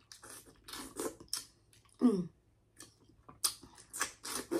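Close-miked wet chewing and lip smacking of a seafood boil, irregular and crisp, with a short hummed "mm" falling in pitch about two seconds in.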